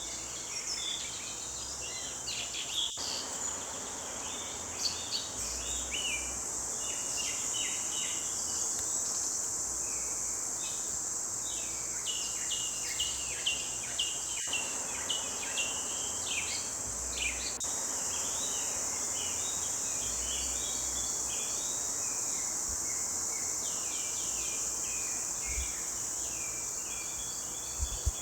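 Forest birds singing in many short chirps and trills, over a steady high-pitched drone of insects.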